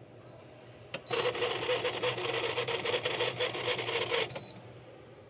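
A short high electronic beep, then about three seconds of loud, fast rattling buzz that stops with a second beep, over a steady low hum.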